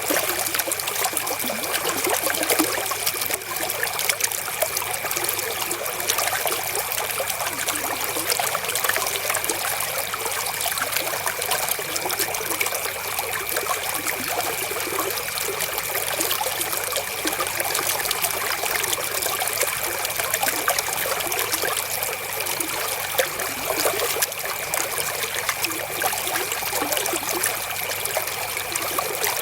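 River water flowing and trickling over stones, a steady, even babble of running water.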